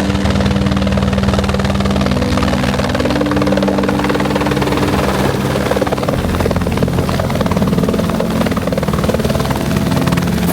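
Helicopter running steadily in flight, its turbine and rotor giving a steady drone with a fast, even rotor beat.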